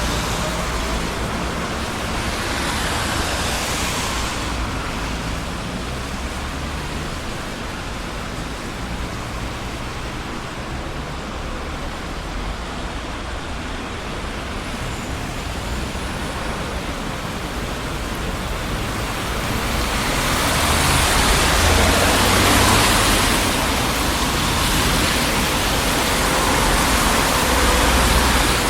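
Steady road traffic on a busy city street: a continuous wash of tyre and engine noise, with vehicles passing close and swelling louder about three seconds in and again over the last third.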